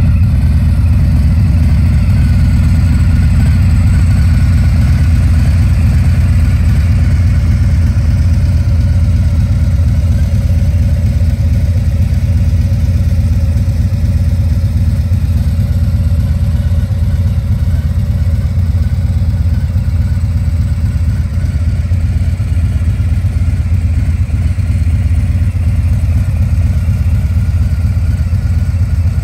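Harley-Davidson Fat Boy's Milwaukee-Eight 114 V-twin with Vance & Hines stage 1 exhaust idling steadily, a loud, low rumble with no revving.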